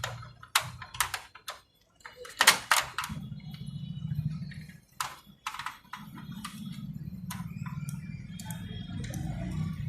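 A run of sharp clicks and knocks from the photocopier's parts being handled and worked loose during disassembly, the loudest a quick cluster about two and a half seconds in. From about three seconds in, a steady low hum runs underneath.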